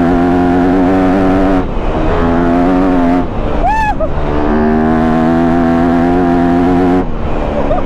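Enduro dirt bike engine held at high revs under load, with the throttle shut briefly about a second and a half in, again about three seconds in, and near the end. A short high note that rises and falls cuts through about halfway.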